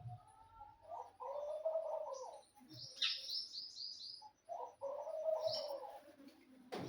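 A pigeon-type bird cooing twice in long, low calls, with a small bird's quick run of high chirps between them, and a sharp click at the very end.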